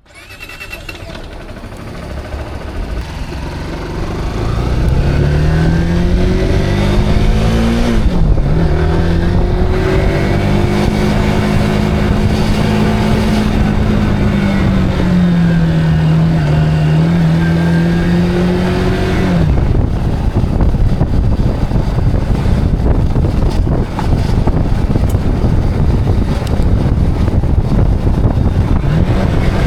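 Zontes cruiser motorcycle engine pulling away and accelerating. Its pitch climbs, drops at a gear change about eight seconds in, then holds at a steady cruise. About twenty seconds in the engine note fades under a broad rumble of wind and road noise.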